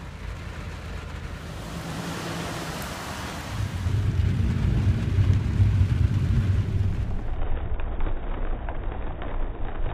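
Steady rain with a low thunder rumble that builds about three seconds in, rolls for several seconds, then eases back to the rain.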